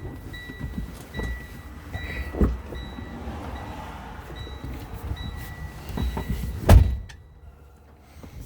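A truck cab's warning chime beeping steadily, about one beep a second, while there are several dull thumps as the driver climbs down out of the cab. Then the cab door slams shut, the loudest sound, and the chime stops.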